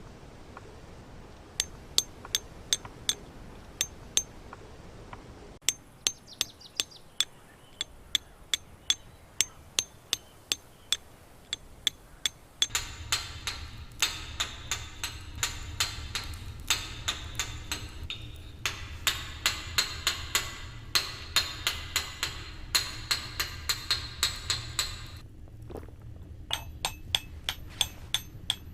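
Hand hammer striking a chisel on stone, sharp ringing clinks about twice a second as stone is dressed. A louder steady background layer comes in about halfway through and drops away near the end.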